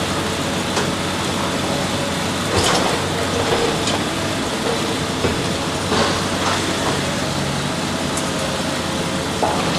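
Heavy machinery running with a steady rumble, broken by a few sharp crunching knocks.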